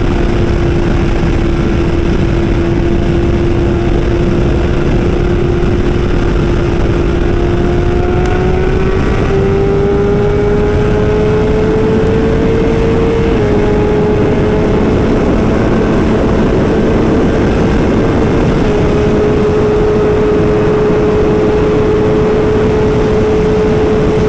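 Sport motorcycle engine running hard at high speed, its note climbing slowly with two small drops in pitch along the way, over heavy rushing wind noise.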